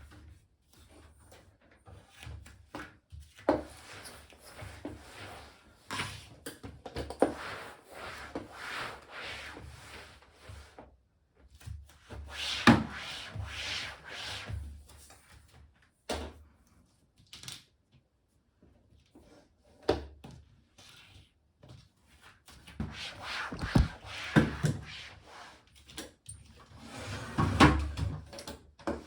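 Irregular rubbing and scraping in stretches of a few seconds, with scattered knocks and clicks, the loudest knocks about 13 and 24 seconds in.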